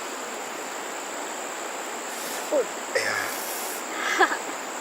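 Outdoor insects droning steadily on one high note over an even rushing background, with short exclamations twice in the second half.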